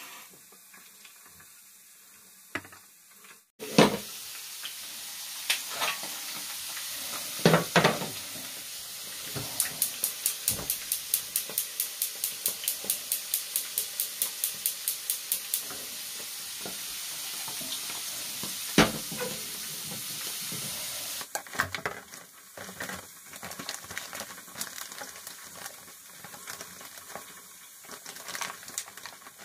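Kitchen food-preparation sounds: a steady frying hiss with utensils knocking, and partway through a run of quick, even stirring strokes, about three a second.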